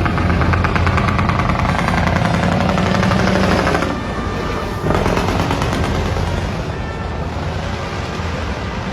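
A dekotora truck's dual exhaust mufflers blaring a loud, rapid stream of exhaust pulses as the engine is revved. It eases off about four seconds in, then comes back strongly a second later.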